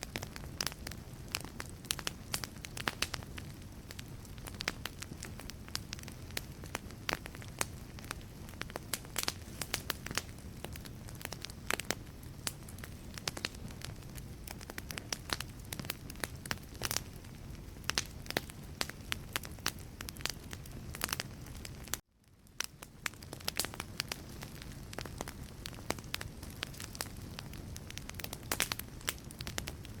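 Wood fire burning in a fireplace: a steady low rumble of flames under a constant stream of sharp crackles and pops from the logs. About two-thirds through the sound cuts out for a moment and fades back in.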